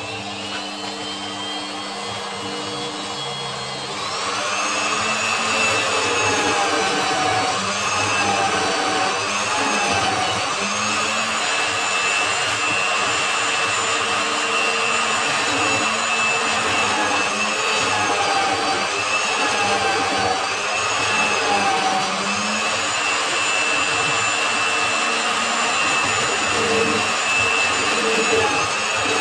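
Electric power tool motor running steadily with a high whine, getting louder about four seconds in, its pitch wavering up and down as it is worked.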